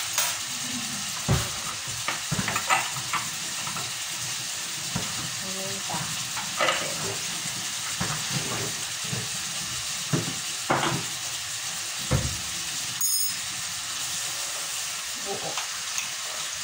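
Chicken pieces frying with onion in a small pan, giving a steady sizzle, with scattered clicks and clatter of utensils.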